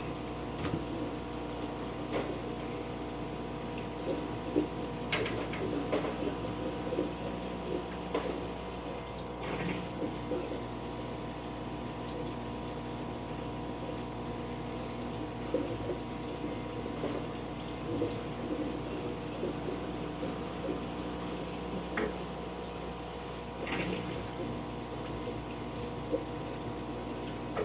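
Aquarium water moving with a steady pump hum, broken by occasional small splashes and knocks as a fish net works in the tank.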